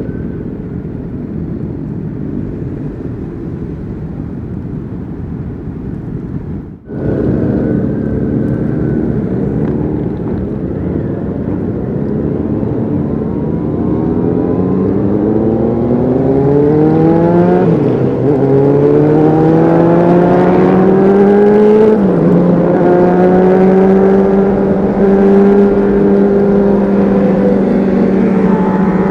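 Honda CBR600RR inline-four sport bike with an aftermarket Leo Vince exhaust, heard on board while riding. After a stretch of even rumble, the engine pulls up through the revs, drops pitch sharply twice at upshifts, then holds a steady cruising note.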